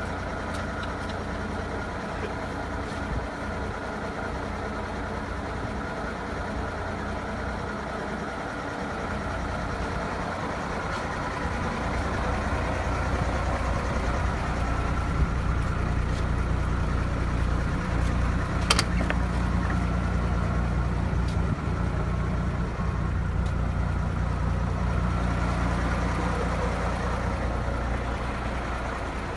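DAF 2700 ATi truck's turbo-intercooled diesel engine idling steadily, louder from about halfway through, with one sharp click a little past the middle.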